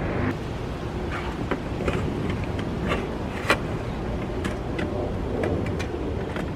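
Scattered light clicks and knocks from interior trim pieces and tools being handled while a car's interior is put back together, over a steady low rumble.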